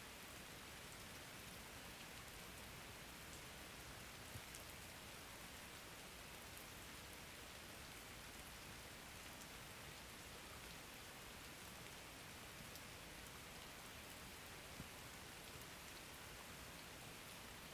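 Steady rain falling, a faint even hiss with scattered light drop ticks.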